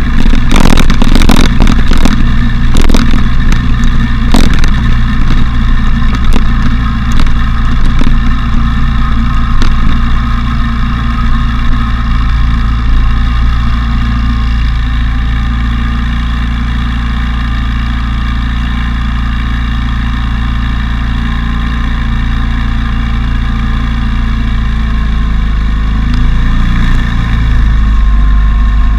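Motorcycle engine running under way with heavy wind rumble on the microphone, and a few sharp knocks in the first few seconds. It eases slightly in the middle and grows louder again near the end.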